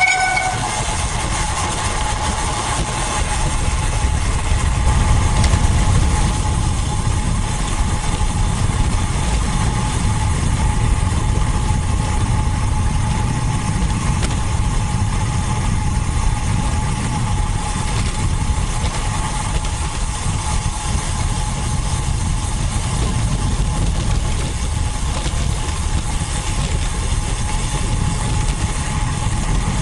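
Steady low rumble, with a faint steady hum above it.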